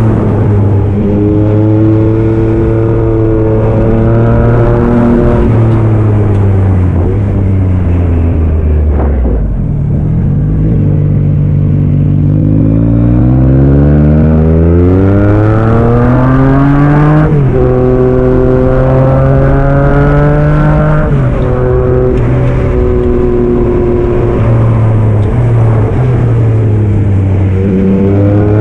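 2022 Yamaha MT-09 SP's three-cylinder engine through a Black Widow aftermarket exhaust, ridden on the road. It holds steady revs, eases off about a third of the way in, then climbs in pitch for several seconds before a sudden drop at an upshift, and runs steady again.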